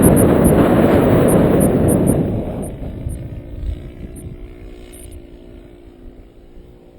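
Strong wind buffeting the microphone for the first couple of seconds, then easing off, leaving the steady hum of a radio-control model aircraft's motor and propeller in flight.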